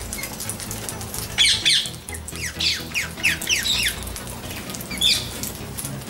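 Birds calling over background music: from about a second and a half in, a quick run of short, high chirps, each falling in pitch, lasting about two seconds, then one more call about a second before the end.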